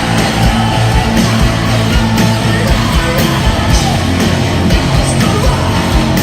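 Loud heavy rock music: distorted guitars and pounding drums with yelled vocals.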